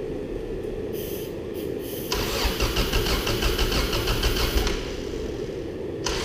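Starter motor cranking the 1985 Subaru GL's flat-four engine on starting fluid down its draw-through carburetor. A short burst of cranking comes about a second in, then a longer, louder spell of rhythmic cranking from about two seconds in that stops near the end, over a steady low hum.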